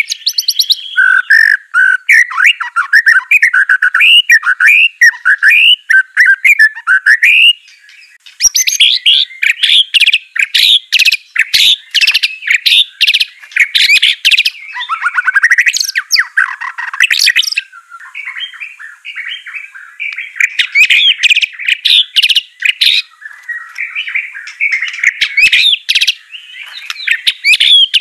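White-rumped shama singing loudly and without letup. Its varied song mixes rapid runs of sharp chip and chatter notes with swooping warbled whistles, pausing briefly about eight seconds in and again near the middle.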